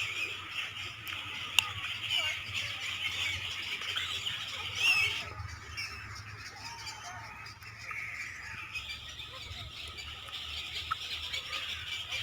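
A chorus of many small birds chirping and chattering at once, thinning out for a few seconds in the middle, over a low steady rumble.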